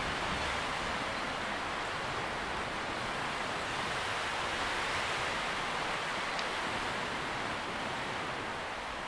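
Tree leaves rustling in the wind: a steady, soft hiss that swells and eases only slightly.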